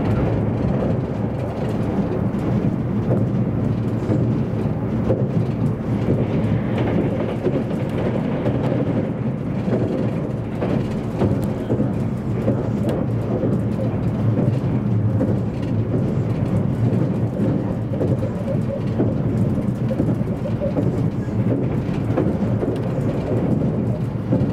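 Running noise inside the passenger cabin of an E257-series electric limited express train: a steady low rumble that holds an even level throughout.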